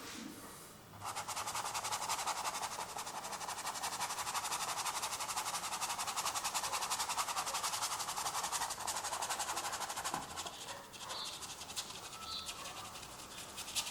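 Paintbrush scrubbed rapidly back and forth across canvas, a dense scratchy rhythm that starts about a second in and eases off after about ten seconds, followed by a few light taps.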